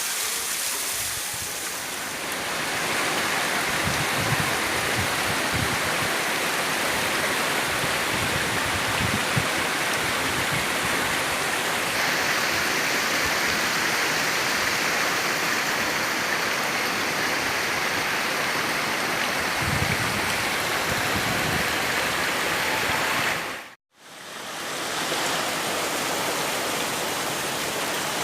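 Waterfall pouring steadily: an even, continuous rush of falling water. About four seconds before the end the sound cuts out for a moment and fades back in.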